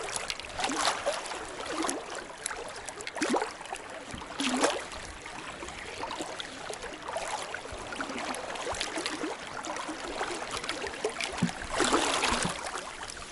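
Flowing river water with irregular splashing and knocks, the loudest clusters about a second, three to four and a half seconds, and twelve seconds in.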